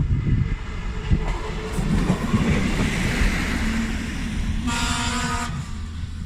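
A train running with a steady low rumble. One short horn blast, under a second long, sounds about five seconds in.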